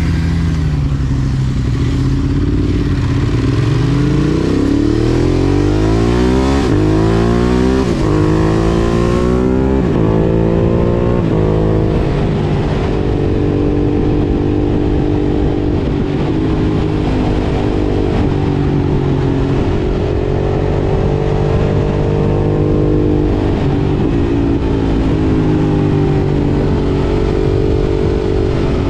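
Ducati Monster 1200 S's V-twin engine through an Akrapovič exhaust, accelerating hard. Its note climbs steeply through several gear changes in roughly the first eleven seconds, then holds at a nearly steady pitch while cruising.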